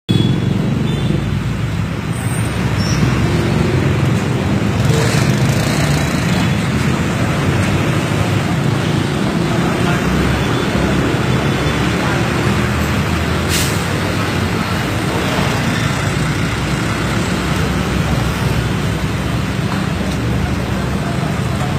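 Steady road traffic: a continuous rumble of vehicle engines, with a short sharp noise about two-thirds of the way through.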